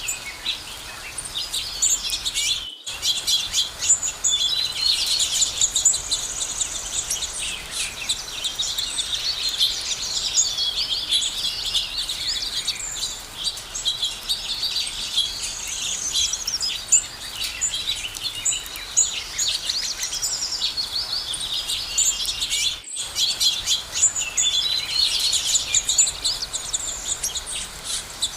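Many small birds chirping and calling at once, a dense, busy chorus of high chirps. The sound cuts out for an instant twice, once a few seconds in and once near the end.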